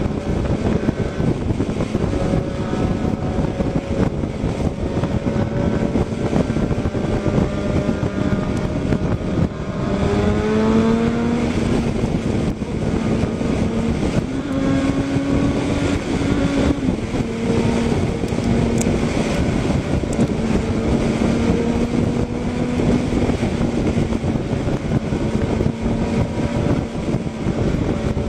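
Motorcycle engine running at speed under a steady rush of wind. The engine pitch climbs about ten seconds in, holds higher for several seconds, then drops back.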